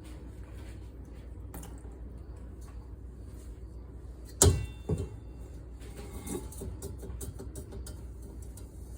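Kitchenware handled during dishwashing: a sharp metallic clank with a short ring about halfway through, a second smaller knock just after, then light clicks and scraping, over a steady low hum.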